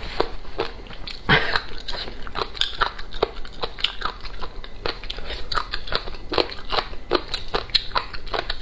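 Close-miked chewing and biting with a fast, irregular run of crunchy crackles: dry, chewy sun-dried papaya shreds being eaten.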